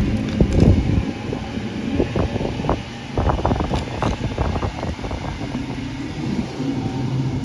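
Electric passenger train rumbling and humming at the station, with a run of short clattering knocks in the middle.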